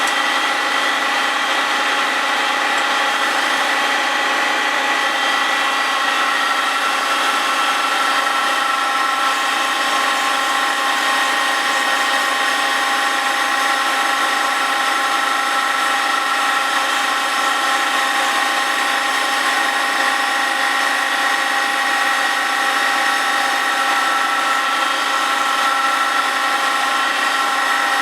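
A cast iron grinding cup on a milling machine spindle grinds the face of a cast-iron Willys Jeep flywheel. It makes a steady grinding hiss with a few steady whining tones over it, taking a light resurfacing pass.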